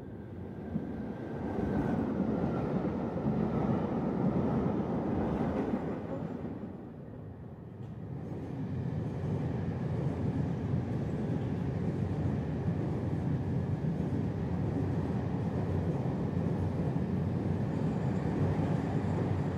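A train running: a steady rumble that builds over the first couple of seconds, dips briefly about seven seconds in, then picks up again and holds.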